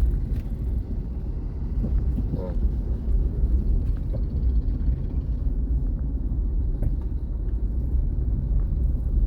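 Vehicle driving on a highway: a steady low rumble of engine and road noise.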